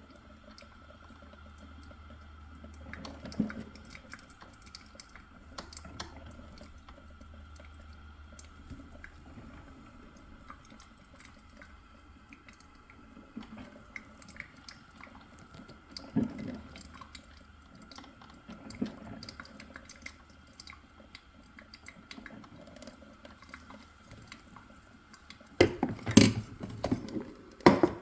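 Black & Decker Spacemaker drip coffee maker running, with faint water gurgling and dripping over a steady low hum and a thin steady tone. There are scattered small clicks, and a few loud knocks of handling near the end.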